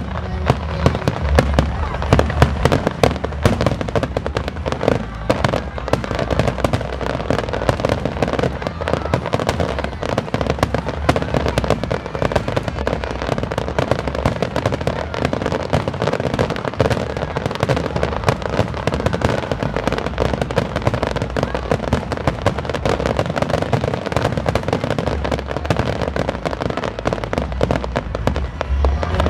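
Fireworks display: a rapid, continuous barrage of bangs and crackles from many shells bursting at once, with no pause.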